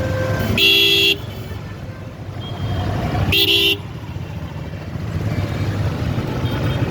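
A vehicle horn sounds twice, two short blasts of about half a second each roughly three seconds apart, over a steady low engine rumble.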